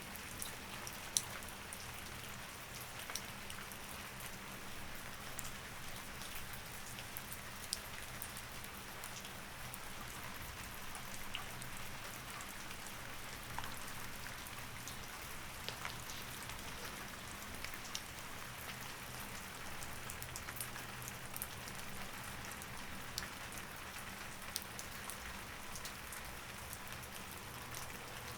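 Steady rain, with scattered individual drops ticking on a surface, over a faint steady low hum.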